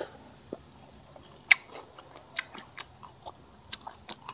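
A man chewing crispy deep-fried pork close to a lapel microphone: irregular sharp crunches and mouth clicks, about one or two a second.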